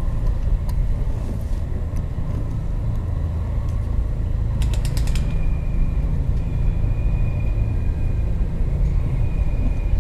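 Low, steady rumble of a subway station. About halfway through comes a quick run of five or six clicks, then a thin, steady high squeal that holds on.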